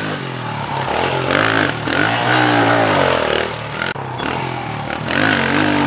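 Pit bike engine revving up and down. The pitch climbs and drops about a second and a half in, dips around the four-second mark, then rises again near the end.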